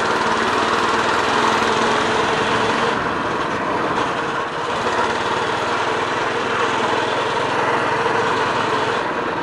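Minibike's small single-cylinder engine running steadily under way.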